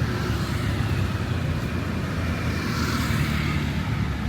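Road traffic on a busy city street: a steady rumble of passing cars and motorbikes, with one vehicle passing closer and louder about three seconds in.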